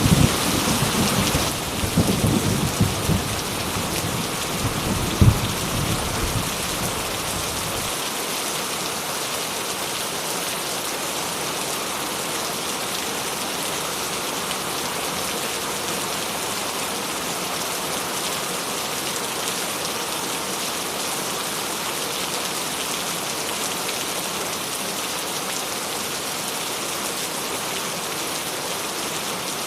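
Steady heavy rain falling, with a thunder rumble for the first several seconds. The thunder has sharper cracks about two and five seconds in and dies away at about eight seconds, leaving only the even hiss of the rain.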